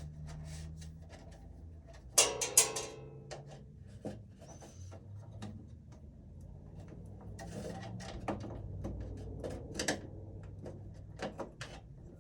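Clicks, knocks and scrapes of hands and tools working wires and terminals in an electrical breaker panel, with a loud rattling clatter a little over two seconds in, over a steady low hum.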